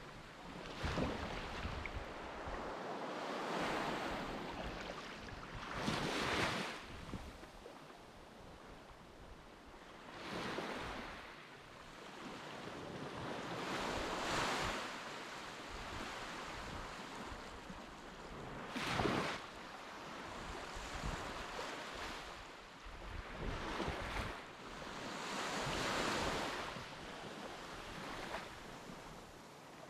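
Waves breaking and washing on a sandy beach, the rush of surf swelling and fading every few seconds.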